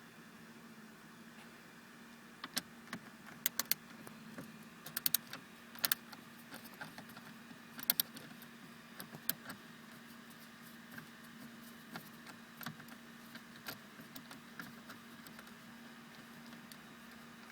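Sharp, irregular clicks and light ticks of a screwdriver and small screws being worked out of a car dashboard's plastic HVAC control panel, busiest in the first half, over a low steady hum.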